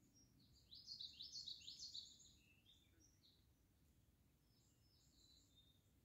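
A songbird singing: a quick run of high chirping notes about a second in, lasting about a second, followed by a few fainter notes and another soft burst of chirps near the end.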